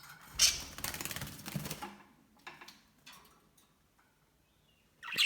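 Budgies fluttering and scrabbling: a sudden flurry about half a second in, a rapid run of clicking and flapping for over a second, a few scattered taps, and another sharp flurry near the end.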